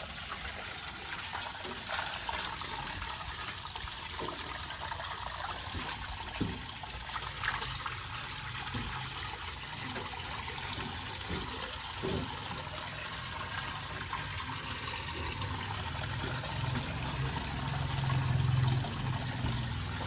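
Water running and splashing steadily while a tractor is being washed down, with a few light knocks and a low hum that grows louder about three quarters of the way through.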